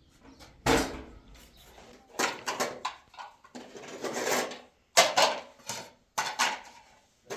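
A series of about five sharp knocks and clatters, each dying away quickly, with short quiet gaps between them.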